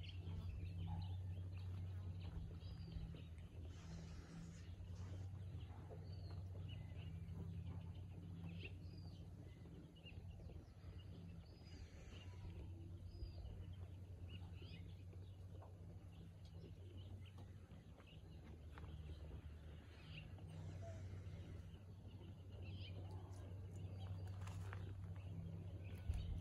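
Scattered short bird chirps, faint and irregular, over a steady low hum.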